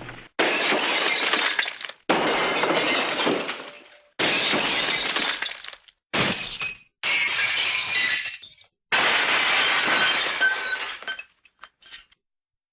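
A series of six glass-breaking crash sound effects from a cartoon sound library, played one after another with short silences between. Each starts suddenly and fades out, and a few small tinkles of settling fragments come near the end.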